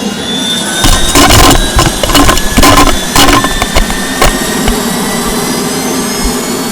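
Malfunctioning air conditioner running loudly with a whine that slowly rises in pitch, broken by a burst of sharp bangs and crackles in the first few seconds; the unit is going haywire and shooting flames out of its vent.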